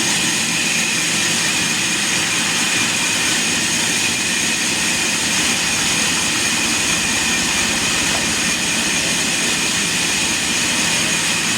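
Sawmill machine running steadily, a continuous loud machine noise with a steady high whine over it.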